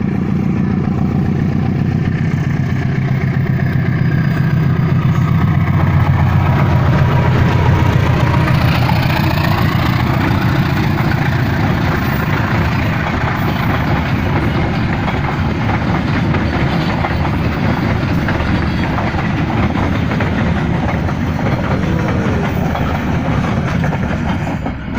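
The Serayu passenger train passing close by. Its locomotive's diesel engine drones for the first several seconds, loudest about seven seconds in, then the carriages rumble and rattle steadily past.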